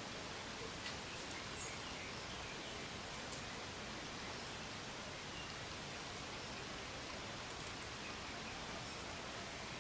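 Steady outdoor background noise, an even hiss-like rush, with a few faint, brief high chirps.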